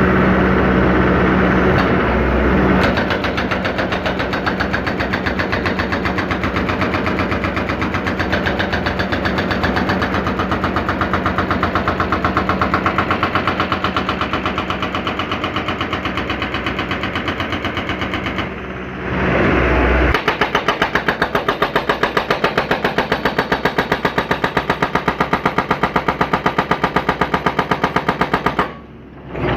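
John Deere 160C excavator running while a hydraulic breaker hammers rapidly and evenly, about seven blows a second. The hammering pauses briefly about two-thirds of the way through, then resumes.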